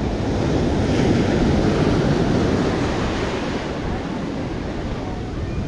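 Ocean surf breaking and washing up the sand, swelling about a second in and easing off after about three seconds, with wind buffeting the microphone.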